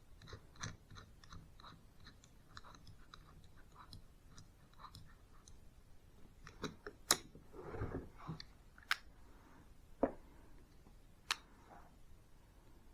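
Light handling clicks and taps of a hole saw and its metal parts: a run of soft ticks for the first few seconds, a short rustle past the middle, then a few sharper single clicks spaced a second or more apart.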